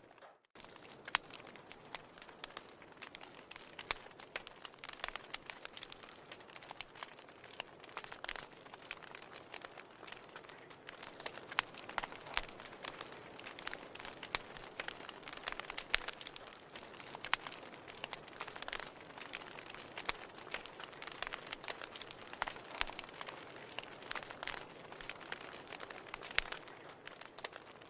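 Wood fire in a fireplace crackling, with many irregular sharp pops over a soft steady hiss. The sound drops out briefly just after the start.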